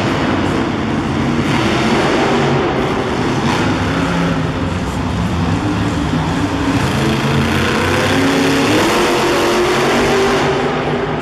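Mega truck engines running at high revs under hard throttle, the pitch rising and falling with a long climb in the second half.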